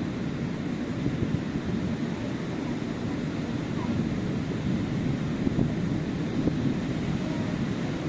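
Sea surf washing onto a sandy beach: a steady, low rush of waves, with wind buffeting the microphone.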